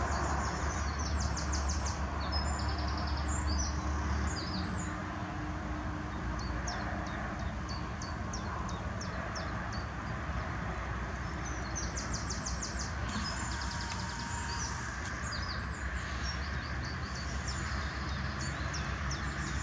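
Small songbirds chirping, with a couple of quick trills, over a steady outdoor background hiss and a low rumble that is heavier for the first four seconds or so.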